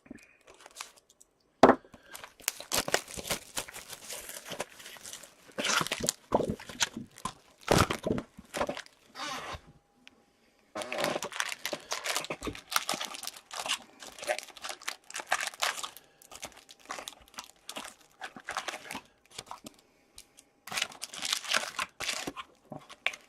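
Hockey card packs being torn open and their wrappers crinkled and crumpled in the hands, in irregular crackling bursts with a brief pause about ten seconds in.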